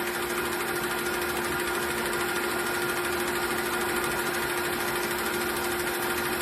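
Metal lathe running with a steady hum while taking a light 5-thou turning pass on an aluminum workpiece.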